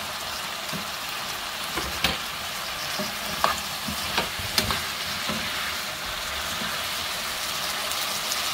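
Gochujang-coated potato cubes sizzling in a frying pan as they are stir-fried, with a steady frying hiss. A wooden spatula and a spoon turning them give a few sharp clicks and scrapes against the pan in the first half.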